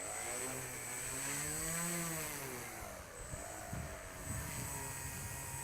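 An RC model tail-dragger's motor and propeller running at taxi throttle, the pitch rising to a peak about two seconds in and falling again, then swinging gently as the throttle is worked, over a steady thin high whine.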